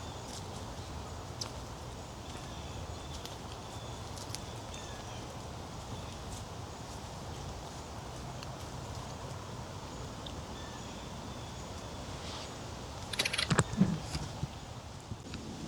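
Quiet woodland trail ambience: a steady low background with faint scattered ticks and light steps. About two seconds before the end comes a short burst of close clicks and rustling.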